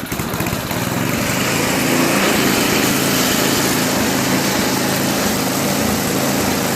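Toro 521 snowblower's Tecumseh engine running steadily on choke. It will only run on choke, the sign of a dirty carburettor that needs cleaning.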